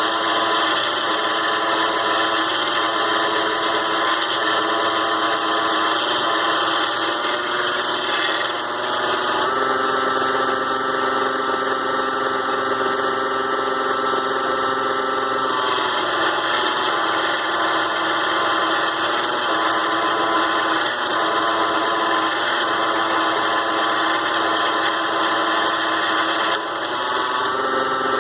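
The DC-motor-driven 6-in-1 mini lathe running steadily with a whine while turning aluminium stock. Its tone shifts a few times: about a third of the way in, about halfway, and near the end.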